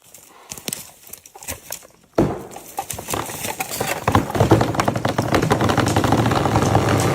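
A felled tree cracking as it begins to go over, then crashing down through the branches of the surrounding forest in a long, loud run of snapping and rumbling that starts suddenly about two seconds in.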